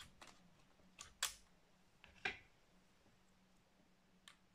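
A few sharp, short clicks and knocks from laptop parts being handled on the bench: about four or five, the loudest a little over a second in.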